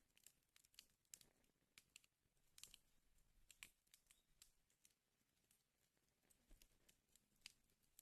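Wood fire crackling in a fireplace: faint, irregular pops and snaps, thickest about a second to four seconds in.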